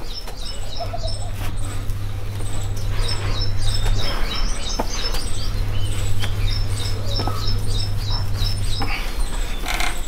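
Small birds chirping rapidly and repeatedly in high, short notes, over a steady low hum, with a few sharp clicks.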